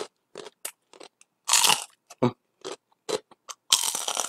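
Close-up crunching and chewing of a crispy fried ngohiong (fried spring roll), heard as a run of short, irregular crunches. Two longer, louder crunches come about one and a half seconds in and again near the end.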